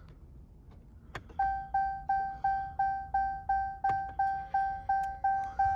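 A click, then the 2014 Ram 3500's dashboard warning chime beeping evenly about three times a second as the ignition is switched on.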